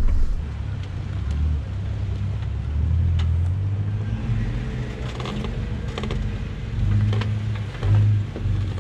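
Off-road vehicle's engine running as it drives, a low hum that rises and falls in pitch, with a few light knocks and rattles.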